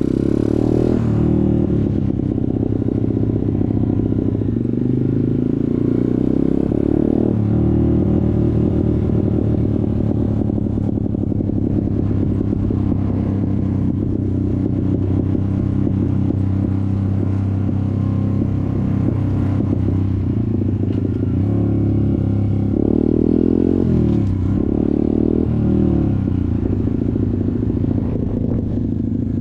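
Off-road motorcycle engine running steadily under way, its pitch shifting up and down a few times as the throttle changes.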